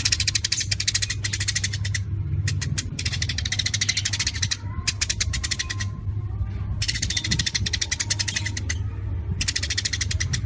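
A songbird's rapid-fire 'tembakan' song: bursts of very fast, sharp, high repeated notes, like a machine-gun trill, in several phrases with short gaps between them. A steady low hum runs underneath.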